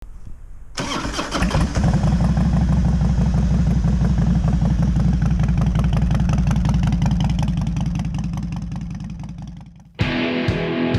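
Harley-Davidson Twin Cam 88 V-twin motorcycle engine running with a loud, steady rumble; it comes in suddenly about a second in and fades out near the end, where guitar music begins.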